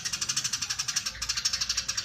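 Eurasian tree sparrow giving its long, dense chattering call: a fast, unbroken run of short high chirps, about ten a second.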